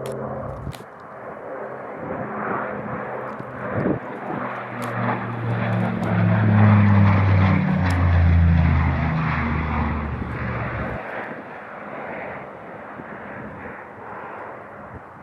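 Embraer EMB 120 Brasilia twin turboprop flying past low: its propeller drone builds to a peak partway through, drops in pitch as it passes, then fades into the distance.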